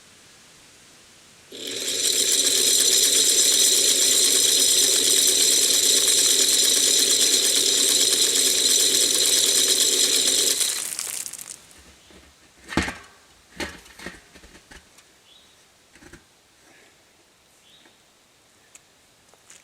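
Shelled corn rattling steadily against a metal deer feeder for about nine seconds, then stopping, followed by a few scattered knocks.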